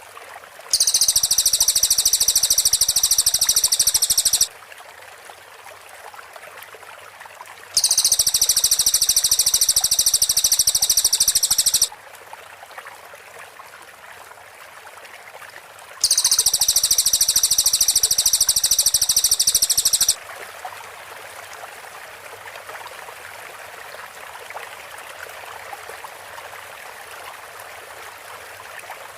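Cililin song: three loud bursts of a very rapid, high-pitched trill, the close 'rapid-fire' delivery, each about four seconds long, with a faint steady hiss between them.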